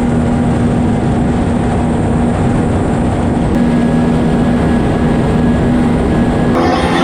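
Jet ski engine running loud and steady at an even pitch, over a heavy low rumble.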